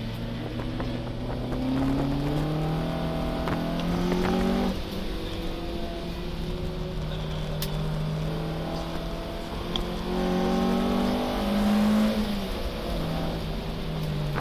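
BMW 02 race car's four-cylinder engine heard from inside the cabin under racing load. Its pitch climbs for about five seconds, drops sharply, runs level, then climbs again before falling back near the end.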